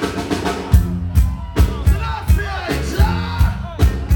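Live reggae band playing: drum kit beating about two and a half strokes a second over a bass line, with a singer's voice riding over the music.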